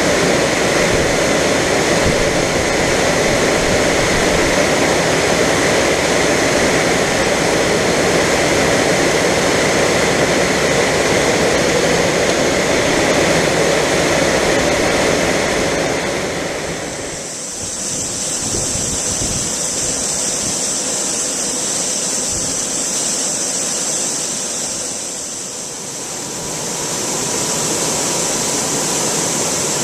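Grain unloading: soybeans pouring out of a wagon into an auger hopper with a steady rushing hiss, over a machine running. About seventeen seconds in the sound changes to a higher, thinner hiss.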